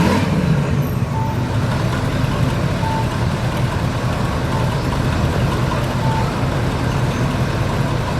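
A vehicle engine revs briefly at the start, then runs steadily at idle. A reversing beeper sounds a short high beep about every one and a half seconds.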